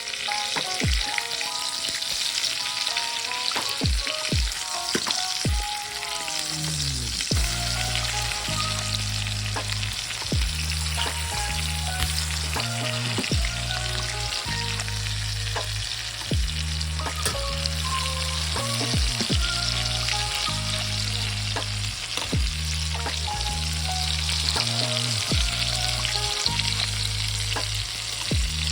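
Breaded chicken breasts sizzling steadily in olive oil in a frying pan. Background music with a bass line and drum beat plays over it, the bass coming in about a quarter of the way through.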